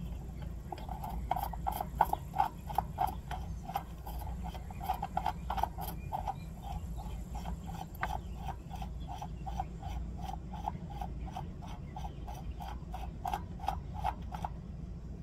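Steady metallic clicking, about three clicks a second, like a ratchet or pawl mechanism being turned, on the rear wheel hub being taken apart. It stops shortly before the end.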